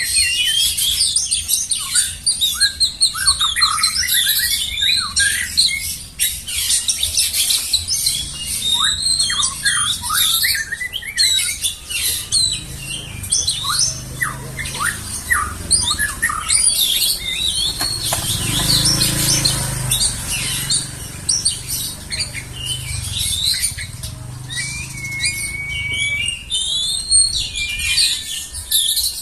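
Songbird singing continuously: a dense, rapid run of high, varied whistles, chirps and trills. A faint low rumble sits under the song in the middle.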